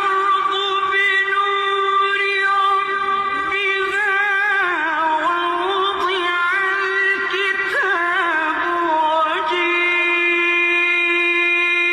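Quran recitation in the melodic tajweed style: one voice drawing out long, ornamented held notes with trills, with no pauses. The pitch drops about four and a half seconds in, and a new long note starts around nine and a half seconds in.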